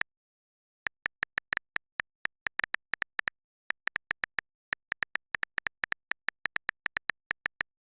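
Irregular sharp clicks, several a second at their densest, with dead silence between them.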